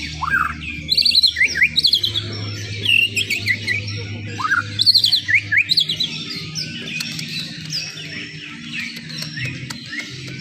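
Cucak ijo (leafbird) singing a fast, varied string of whistled chirps and sweeping notes, busiest in the first six seconds and thinning toward the end, over a steady low hum.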